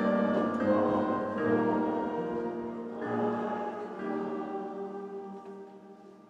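A church congregation singing the last lines of a hymn with instrumental accompaniment, ending on a long held final chord that fades away.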